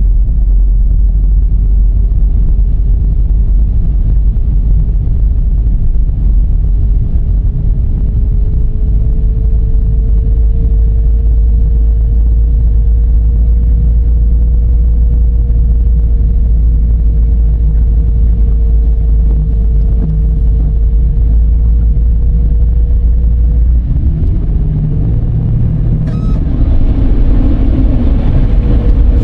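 A Dodge Charger being driven, heard as a steady low road rumble with a faint whine that rises slowly with speed. Near the end the rumble changes and the whine drops and climbs again as the car picks up speed, with more tyre hiss.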